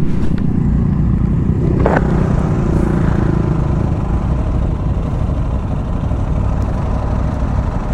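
Aprilia Tuareg 660's parallel-twin engine running steadily under way on the road, with a short click about two seconds in.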